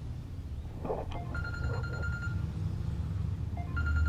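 Phone ringing: a steady high electronic ring tone about a second long that repeats, with one full ring and the next one starting near the end, over a steady low hum.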